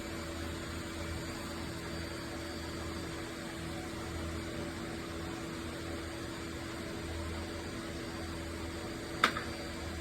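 Vacuum used to suck up bees running steadily, a constant hum over a rushing air noise. A single sharp click about nine seconds in.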